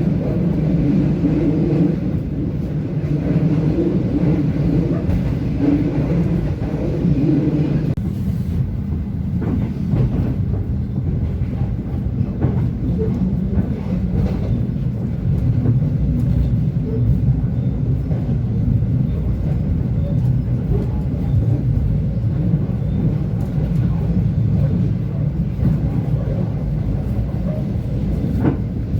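Passenger train running on the rails: a steady low rumble with scattered faint clicks. A higher hum drops away about eight seconds in.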